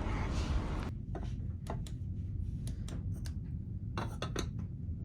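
Wind noise on the microphone that cuts off about a second in. Then the ferry's low, steady engine rumble, with a few light clinks and clicks scattered over it.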